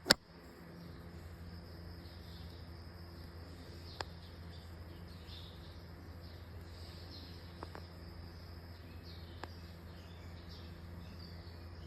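Faint insect chirping over a low steady hum, with a sharp click right at the start and a few faint ticks later on.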